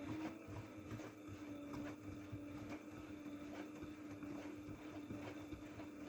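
AEG front-loading washing machine's drum motor running steadily during the intermediate spin after the prewash: an even hum that settles at a constant pitch after a slight rise, with faint ticks from the drum.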